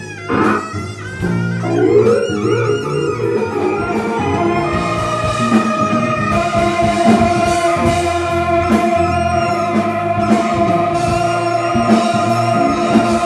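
A live fusion band plays, with drum kit, bass and guitar under a melodic lead. A long held note sustains over the rhythm from about six seconds in.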